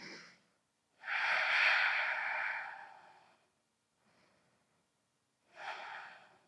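A person breathing out audibly through the microphone: one long exhale of about two seconds starting about a second in, then a shorter breath near the end.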